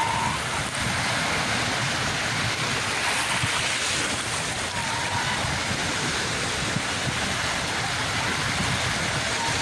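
Sea surf washing on the shore, a steady, unbroken rush of water.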